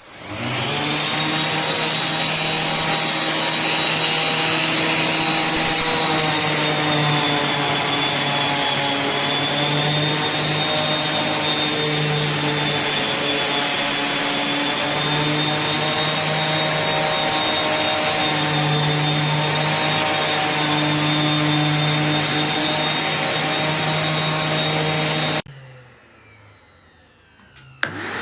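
Wet-and-dry shop vacuum switched on, its motor running steadily with a high whine. Near the end it is switched off and its whine falls as the motor winds down, then it starts up again.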